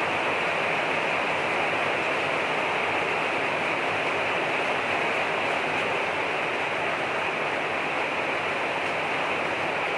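Rain falling steadily, an even hiss of water that does not let up.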